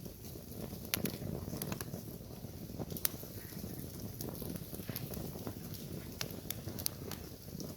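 Small wood campfire burning with a steady low rush of flame and irregular sharp crackles and pops of the burning wood.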